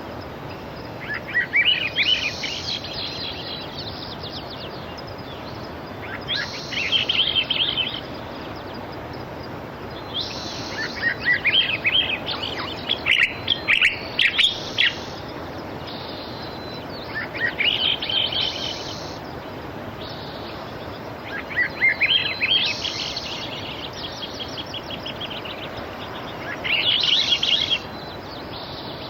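A songbird sings short, high chirping phrases about every four to five seconds, over a steady wash of sea surf.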